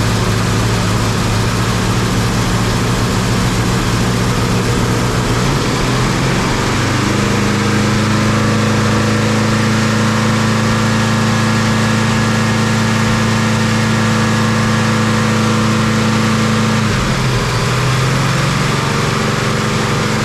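Newly built Oldsmobile big-block V8 running loud and steady during its break-in run; its speed rises about six seconds in, holds for about ten seconds, then drops back.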